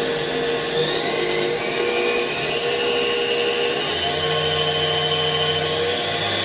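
Spindle of a Daewoo DMV5025-50 CNC vertical machining center running at speed with a steady mechanical whine that climbs in pitch about a second in as the spindle speed is stepped up; a low hum joins about four seconds in.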